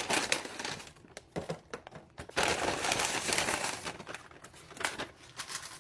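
Food packaging crinkling as it is handled, in two stretches with a few sharp clicks between them.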